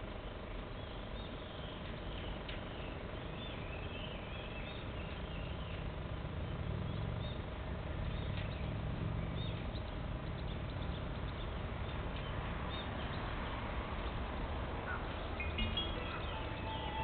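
Electric freight train approaching from a distance: a low rumble slowly building as it draws nearer. Birds chirp over it about a second in and again near the end.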